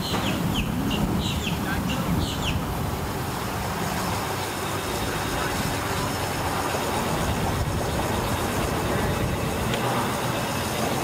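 A bird calling in a quick run of short, high chirps, about four a second, that stops a couple of seconds in, over a steady low rumble.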